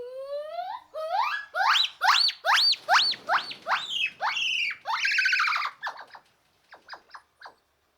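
An animal's high squealing calls, each sweeping sharply up in pitch, repeated about two or three a second, then a few faint clicks near the end.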